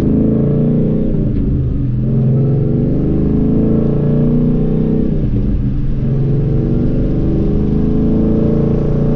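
Ford Mustang 5.0 V8 exhaust, mufflers deleted with SLP straight-through resonators left in, heard through an open window while driving. The engine note is loud and continuous, and its pitch shifts twice, about a second and a half in and again about five seconds in.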